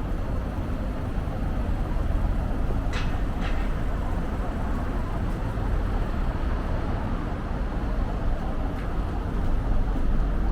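Steady low rumble of vehicle traffic, with two brief ticks about three seconds in.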